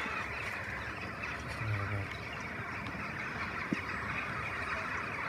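A large flock of jackdaws calling together: a steady, dense chatter of many overlapping calls, busy enough to sound like people talking.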